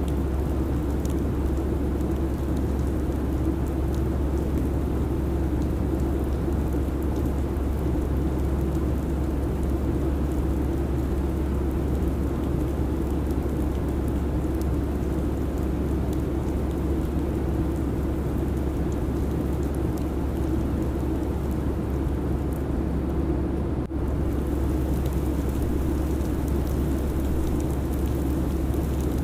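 Steady airliner cabin noise: an even, low drone of engines and airflow with a hiss on top, briefly dipping about 24 seconds in.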